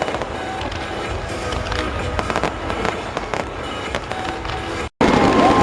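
Fireworks going off in a rapid barrage of cracks and pops, with music playing in the background. Near the end the sound cuts out for an instant and comes back louder, with a held whistling tone.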